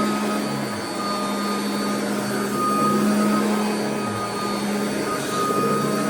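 Royal vacuum cleaner running on carpet: a steady motor hum and whine over the rush of air, its loudness rising and falling a little.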